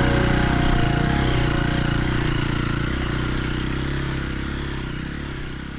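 Dirt bike engine running steadily, gradually fading out.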